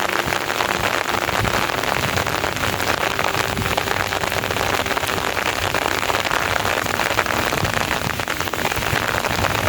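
Heavy rain falling steadily, a dense patter of drops that does not let up.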